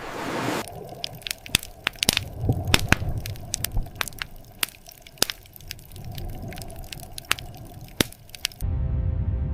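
Irregular sharp cracks and clicks over a low rumble, following a brief burst of noise at the start. Near the end this cuts to a steady low droning music bed.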